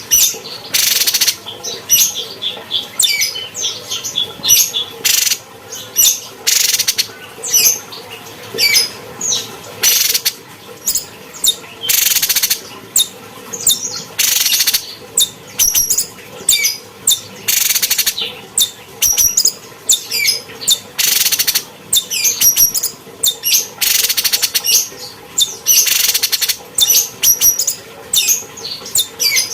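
Cucak cungkok songbird singing: a rapid run of sharp high chirps and whistled notes, broken every second or two by short harsh, rasping bursts.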